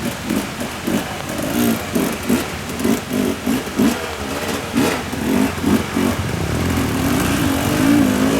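Motorcycle engine revved in quick repeated throttle blips, about three a second, then held at a steadier, slowly climbing rev near the end.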